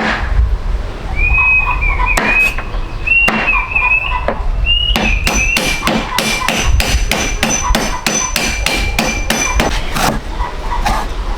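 Sharp knocks, a few scattered at first, then a quick even run of about four a second for several seconds, like hammering or chopping. Over them a thin high whistling tone wavers and then holds steady.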